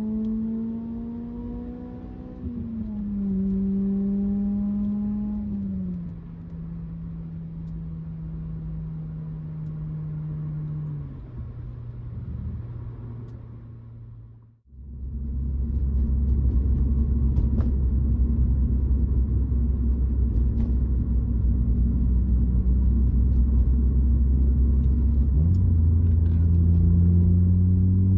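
Acura RSX Type-S's K20Z1 four-cylinder through an Invidia N1 cat-back exhaust while driving: the engine pitch rises, steps down with a gear change, then eases lower as the car slows. After a brief cut it holds a louder, steady low drone, and the pitch climbs again near the end.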